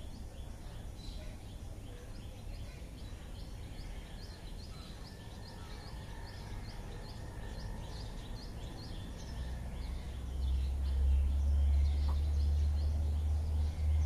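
A bird chirping in a fast, steady series of short high notes, about three or four a second, which fades out after about nine seconds. About ten seconds in a low rumble rises and becomes the loudest sound.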